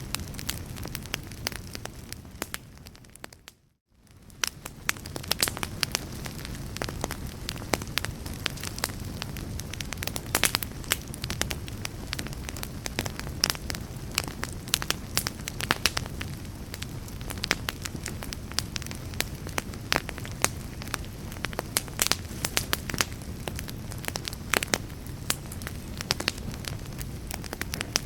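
Fire crackling: many sharp pops and snaps over a steady low rumble of flames. Between about two and four seconds in the sound fades down to a brief moment of silence, then fades back up.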